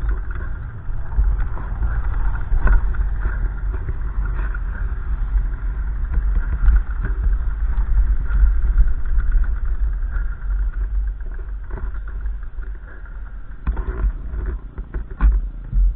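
Gusty wind buffeting the microphone: a heavy, uneven rumble that rises and falls with the gusts.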